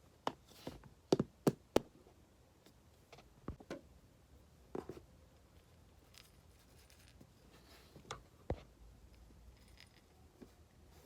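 Irregular light taps and clicks, a quick cluster in the first two seconds and a few more spread out after, as hamster food is handled and set out in the cage.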